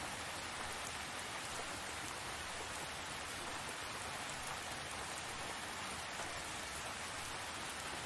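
Steady tropical rain falling, an even hiss of many drops on surfaces.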